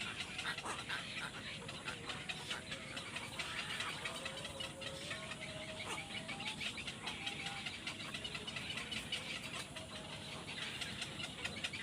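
Young birds making many short, rapid high calls, overlapping continuously.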